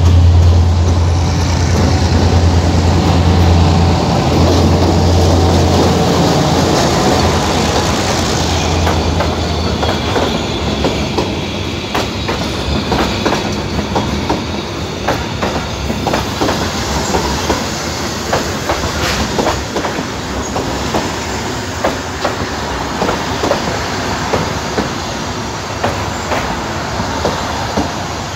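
Passenger train passing close by: the diesel locomotive's engine gives a deep, loud hum for the first several seconds, then the coaches roll past with wheels clacking regularly over the rail joints.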